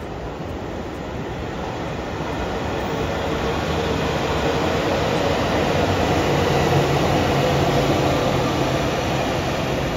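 A train passing, its running noise swelling to a peak about seven seconds in and then easing slightly, with a faint steady hum under it.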